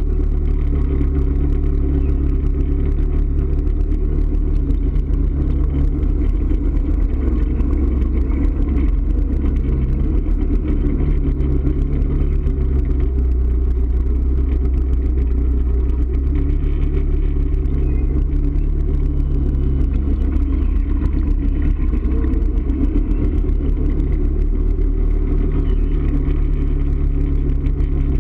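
A motor vehicle's engine running steadily while driving, with a continuous low rumble and no marked revving.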